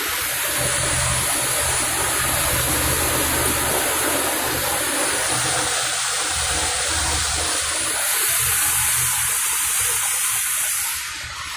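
Steady rushing of wind and water around a cabin cruiser pitching in rough lake waves, with a low throbbing rumble underneath. The rush eases off near the end.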